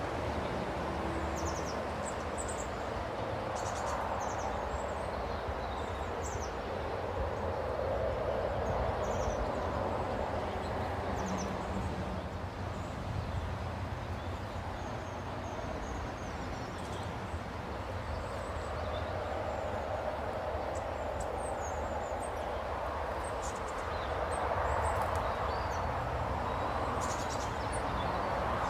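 Small birds chirping in short, high calls scattered throughout, over a steady rushing background noise that swells and eases every several seconds.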